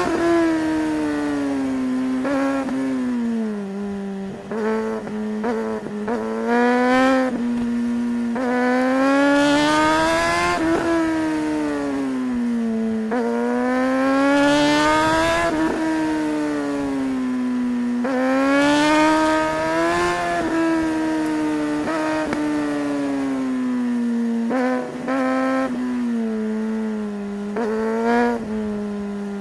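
Suzuki GSR 600's inline-four engine pulling through the revs: its pitch climbs over several seconds and then drops back, again and again, with a few short, sharp throttle blips along the way.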